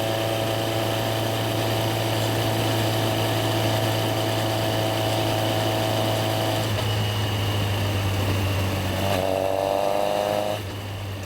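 Yamaha XJR1300's air-cooled inline-four engine running at a steady pace. The note drops away about two-thirds of the way through, rises again as it revs up, then falls off near the end as the throttle is closed.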